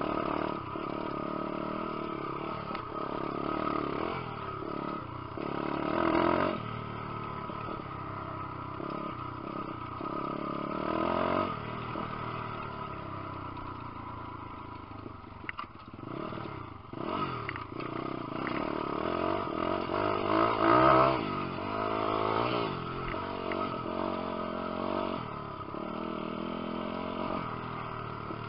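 Lifan 150cc single-cylinder four-stroke pit bike engine being ridden hard, its pitch rising and falling again and again as the throttle opens and closes, with the biggest surges about six seconds in and about two-thirds through. A few sharp knocks come near the middle.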